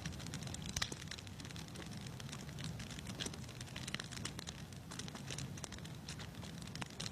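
Wood fire crackling in a fireplace: irregular snaps and pops over a low, steady rumble of the flames.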